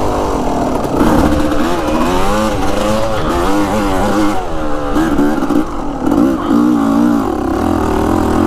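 Yamaha YZ250X two-stroke single-cylinder dirt bike engine revving up and down as the throttle is worked over rough trail, its pitch rising and falling constantly.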